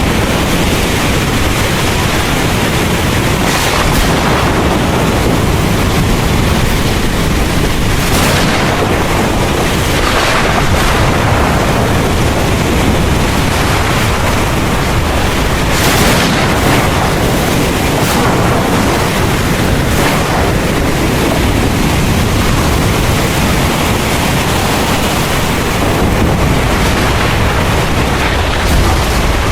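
Heavy rain pouring steadily under a constant low rumble of thunder and wind, with brief swells of louder downpour every few seconds.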